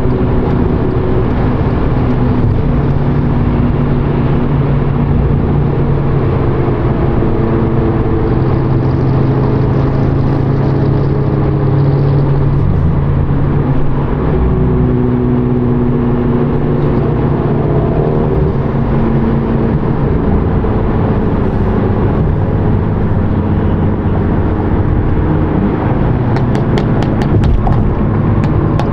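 Volkswagen GTI's turbocharged four-cylinder engine running steadily at cruise with road noise, its pitch shifting slightly now and then. A series of regular ticks comes in near the end.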